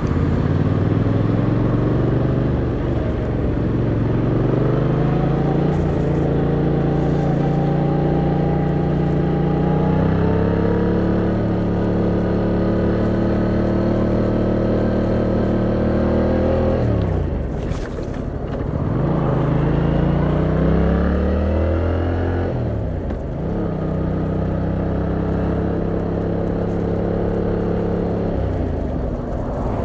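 Yamaha MT-07's 689cc parallel-twin engine heard from the rider's seat, running under way with the revs slowly rising. Twice, in the middle and about two-thirds through, the engine note drops sharply and climbs again, and it falls away near the end.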